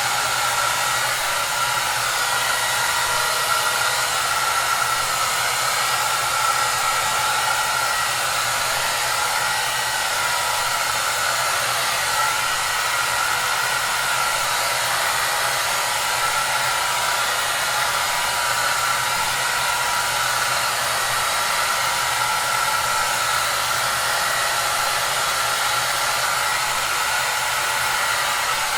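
Hair dryer running steadily: a constant rush of blown air with a faint steady whine from its motor and fan, used as white noise.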